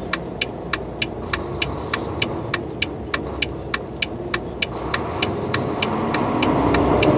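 Turn signal clicking steadily, about three clicks a second, over a semi truck's diesel engine running in the cab. Over the last couple of seconds the engine grows louder and rises as the truck pulls away.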